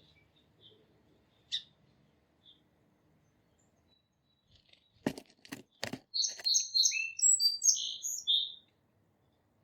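A small songbird calling: one high chirp about a second and a half in, then, after three sharp knocks past the middle, a quick run of high chirping notes lasting about two and a half seconds.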